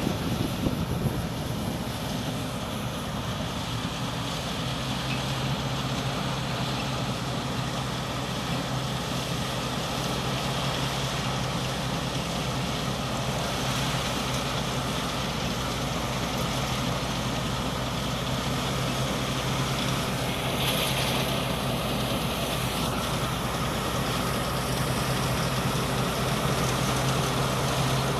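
Combine harvester's 6M61 six-cylinder diesel engine running steadily under load while harvesting rice, with the steady whir and rattle of its threshing machinery. The sound holds at an even pitch and grows slightly louder near the end.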